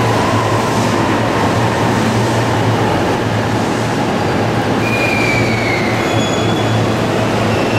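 Suburban electric train pulling into an underground platform and slowing to a stop: a steady rumble of wheels and running gear, with a brief high squeal that falls in pitch about five seconds in.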